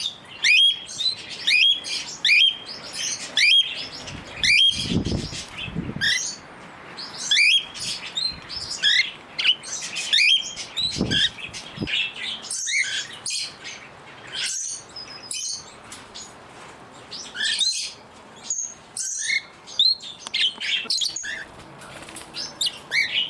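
Small pet parrots, cockatiels, Bourke's parakeets and a budgie, chirping and calling: a short rising call repeated about once a second at first, then many overlapping chirps. Twice a brief low rumble, about five seconds in and again near the middle.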